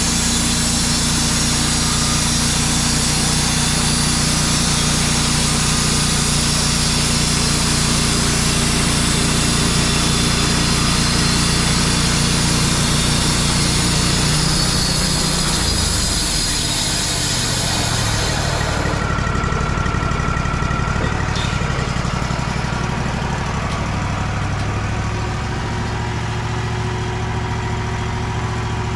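Wood-Mizer portable band sawmill running, its engine steady while the band blade saws through a pine log. About two-thirds of the way through, the high hiss of the cut stops and the engine keeps running.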